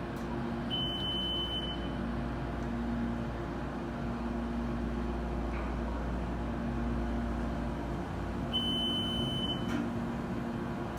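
Roped-hydraulic elevator's replacement ThyssenKrupp pump motor running steadily with a low hum as the car travels up. A high electronic beep sounds twice, about a second in and again near the end.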